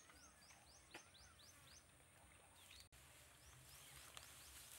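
Near silence: faint outdoor ambience with a bird calling a quick series of short high chirps, about six a second, once at the start and again briefly near the end. The sound drops out for an instant about three seconds in.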